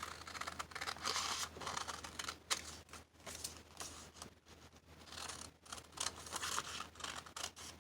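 Scissors cutting paper in a run of repeated snips, the blades rasping through tea-dyed paper.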